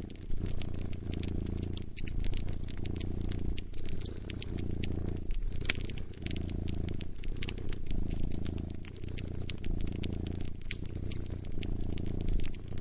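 A cat purring, in low phrases of about a second and a half broken by short pauses, over the scattered sharp crackles and pops of a wood fire.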